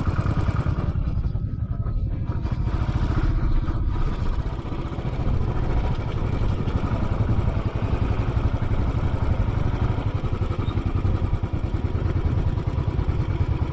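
Royal Enfield Classic 500's single-cylinder engine idling steadily, a low, even rumble.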